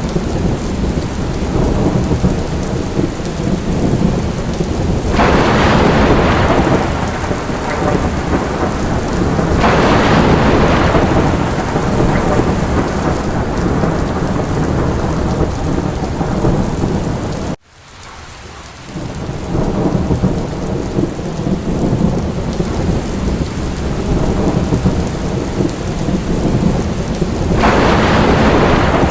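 Steady rain falling, with low rolling thunder underneath and three louder surges of rain and rumble. About halfway through, the sound cuts out abruptly and fades back in, like a splice in a looped recording.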